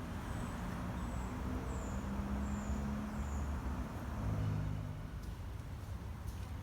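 Low steady rumble of a motor vehicle's engine running, with a small bird giving five short, high, thin calls in the first three and a half seconds.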